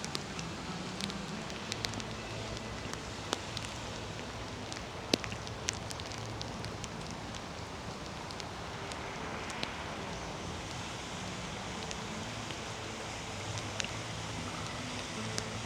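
Steady rain falling, an even hiss with scattered sharp ticks of nearby drops striking.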